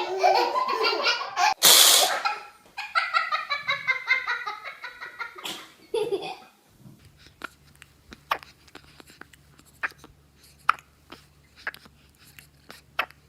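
A young child laughing in repeated bursts, with a short noisy burst about two seconds in. The laughter stops about six seconds in, leaving faint scattered clicks over a low hum.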